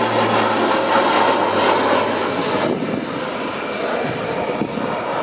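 Airbus A400M's four turboprop engines and propellers running, a loud, steady drone. A low hum under it fades about two seconds in.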